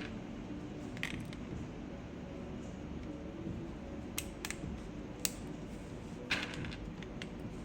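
Sparse sharp plastic clicks and taps of mechanical keyboard parts being handled during assembly, about six in all with the loudest a little after six seconds in, over a steady low background hum.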